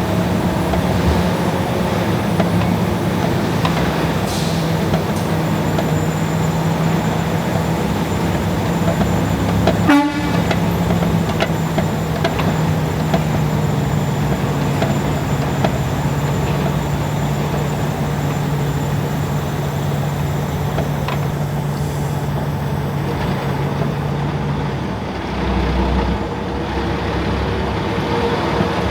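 A steady mechanical drone that slowly drops in pitch, with one sharp clatter about ten seconds in. The drone stops a few seconds before the end, followed by a short low rumble.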